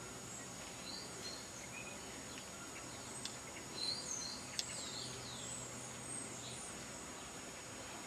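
Outdoor background with birds chirping: a scattering of short, high, sweeping calls, busiest around the middle, and a couple of sharp clicks.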